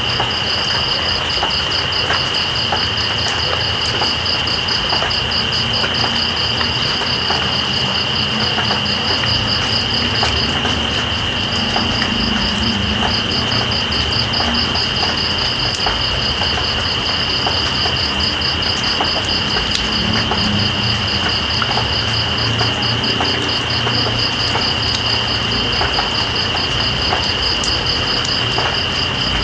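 Steady rain with insects calling over it: one continuous high buzz and a fast pulsing trill above it, which pauses briefly about ten seconds in.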